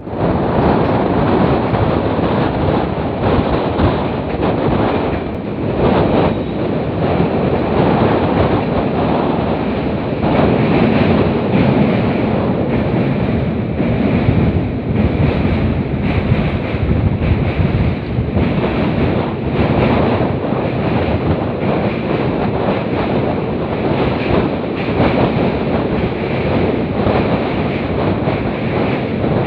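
Wind rushing and buffeting the microphone over the steady running noise of a moving passenger train, heard from aboard the train.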